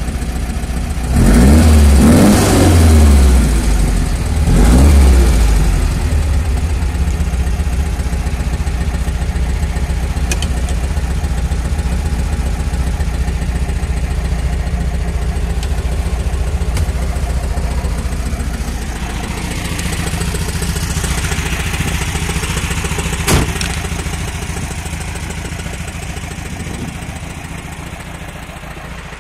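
1962 VW Type 34 Karmann Ghia's air-cooled flat-four engine revved briefly three times, then idling steadily. A single sharp knock comes about two-thirds of the way in, and the engine grows fainter near the end.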